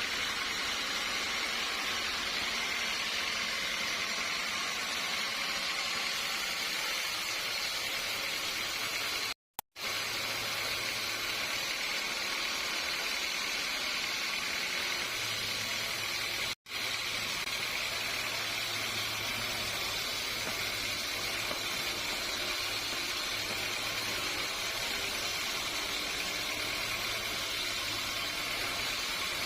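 Sawmill machinery running steadily: a continuous hiss with a faint low hum. It cuts out completely twice for a moment, about a third of the way in and again just past halfway.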